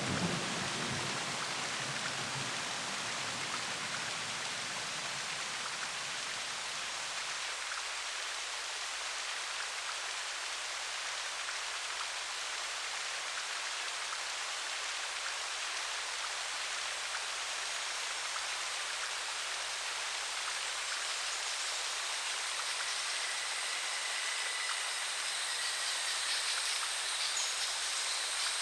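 Steady rain falling, with a low thunder rumble dying away in the first few seconds. Faint high thin tones come in near the end.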